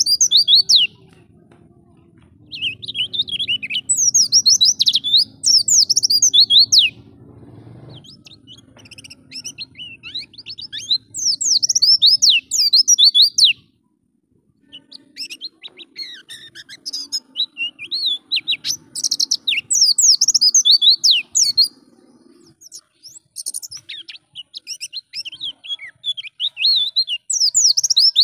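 White-eye (pleci) singing: fast, high twittering song in phrases of a few seconds each, broken by short pauses.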